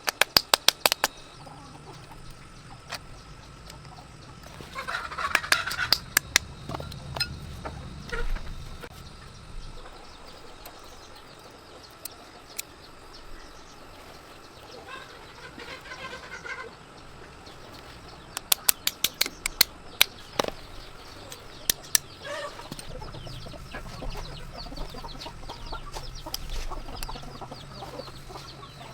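Chickens clucking, with three bursts of rapid sharp taps: one right at the start, one about five seconds in, and the loudest about two-thirds of the way through.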